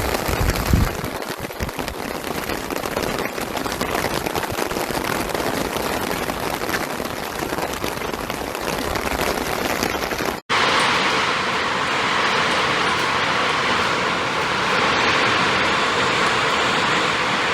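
Heavy hail and rain pelting down on surfaces, a dense hiss full of fine rapid impacts, opening with a brief low rumble. About ten seconds in it cuts abruptly to another steady, heavy downpour.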